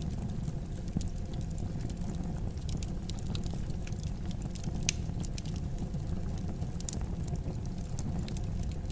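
Wood fire burning in a fireplace: a steady low rumble of the flames with scattered sharp crackles and pops, one louder pop about five seconds in.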